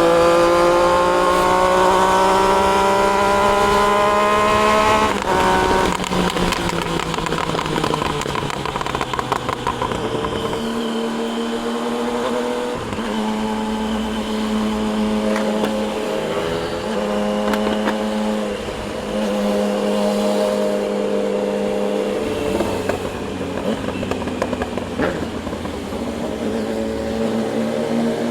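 Triumph Daytona 660's inline three-cylinder engine under way: it accelerates with a rising pitch for about five seconds, then drops off and runs on at fairly steady speeds, broken by several short steps in pitch as the gears change, and picks up again near the end.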